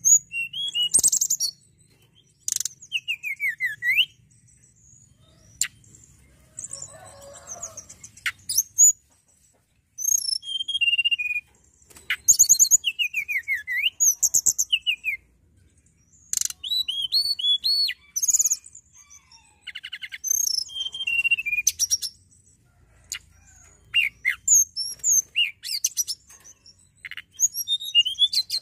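Hill blue flycatcher (tledekan gunung) singing a varied song. It runs in phrases of rapid high whistles, fast trills and sweeping notes, with short pauses between phrases.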